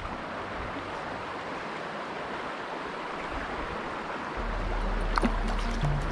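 River water rushing steadily over a rocky bed. About four seconds in, a low steady hum joins it.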